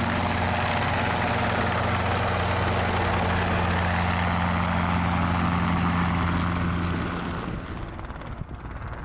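Helicopter running close by, a steady low hum with rushing noise above it, falling away fairly quickly about seven and a half seconds in.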